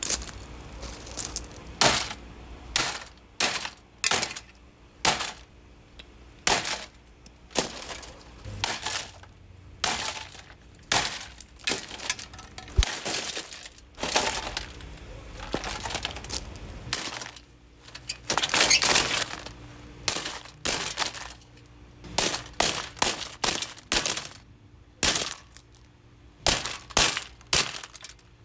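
Plastic housing of a Lasko Ultraforce box fan being smashed: a long run of sharp, irregular blows, about one or two a second, with plastic cracking and breaking and a quick flurry of hits partway through.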